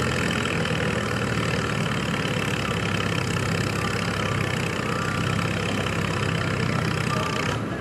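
Farm pulling tractor's engine running steadily at an even speed, with a rough, rattly edge. Near the end the sound changes abruptly.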